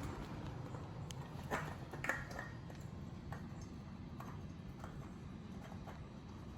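Scattered light clicks and taps of hand work with the oil bottle and new oil filter, the loudest a couple of seconds in, over a low steady hum.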